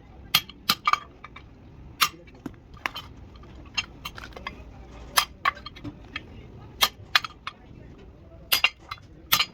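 Irregular sharp metallic clinks and taps of tools striking metal, about a dozen strikes, with two of the loudest close together near the end.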